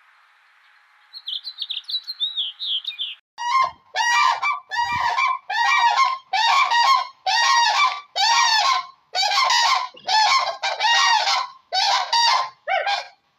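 A bird calling: a quick run of high chirps, then about a dozen loud, harsh calls in a steady series, nearly two a second.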